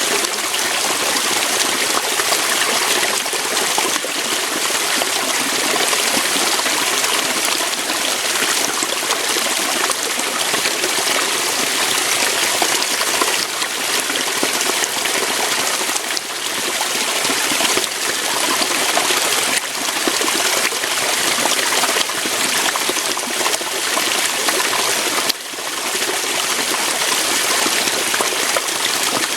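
Waterfall: water pouring over rocks in a steady, even hiss that is strongest in the high range, with a slight dip in level once near the end.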